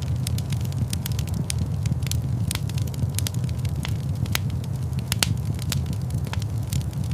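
Fire in a fireplace crackling, with irregular sharp pops over a steady low rumble of the flames; a few pops stand out louder.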